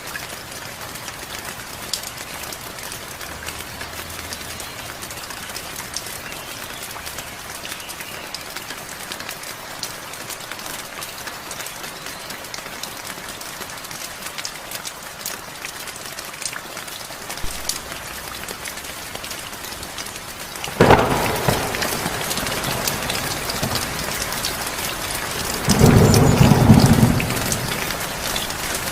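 Steady rain falling with fine drop ticks. About two-thirds of the way through a sudden loud thunderclap breaks in and the rain turns heavier, and a few seconds later a deep rumble of thunder swells for about a second and a half.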